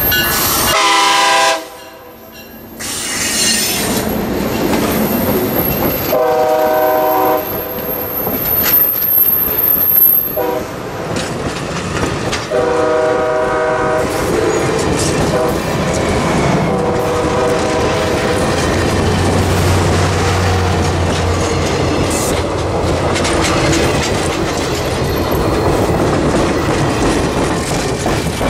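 Diesel passenger locomotive passing close by, its air horn sounding a series of long and short blasts through the first half. Then the passenger cars roll past with a steady rumble and the clickety-clack of wheels over rail joints.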